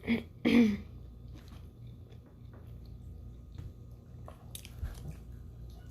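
Close-up chewing and biting sounds of a person eating, with faint mouth clicks, and a short loud pitched sound about half a second in.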